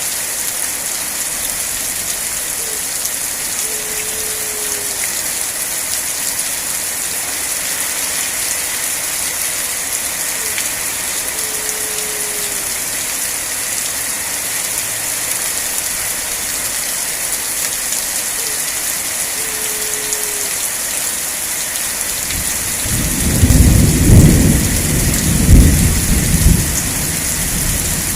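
Steady rain falling. A low thunder rumble swells about three quarters of the way through and is the loudest sound, then fades back into the rain.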